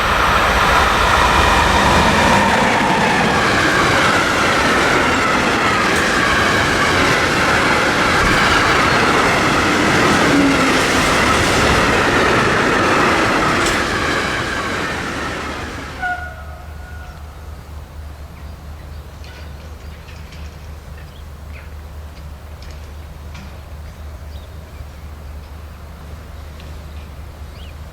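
A train passing close by, its wheels clattering over the rails, with drawn-out tones that slowly fall in pitch. About sixteen seconds in, the noise drops abruptly to a much quieter steady low hum with a few faint ticks.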